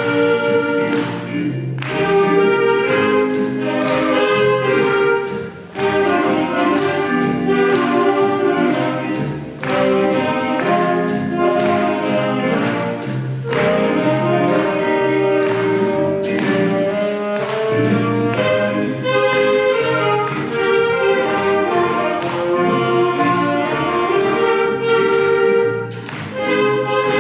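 Saxophone ensemble playing a sustained melody over accompaniment with a steady beat.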